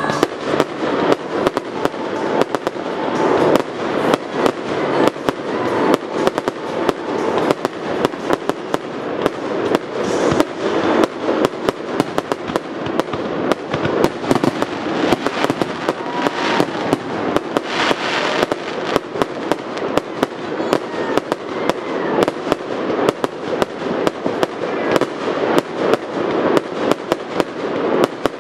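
Aerial firework shells bursting in rapid succession. A continuous barrage of sharp booming reports, several a second, with no let-up.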